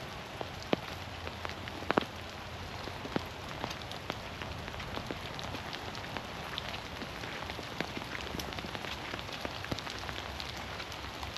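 Steady rain falling in a forest, a constant patter with scattered sharp taps of single drops close by, the loudest about two seconds in.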